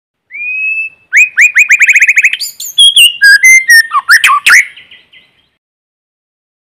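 White-rumped shama singing: a rising whistle, then a fast run of about ten repeated notes, then a burst of varied whistled phrases that stops about five seconds in.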